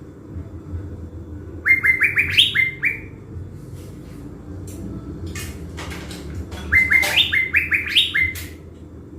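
Caged thanh lam songbird singing two quick phrases of clear, rapidly repeated notes, each note sweeping upward, about five seconds apart. It is a decoy bird in strong song, ready to call in wild birds.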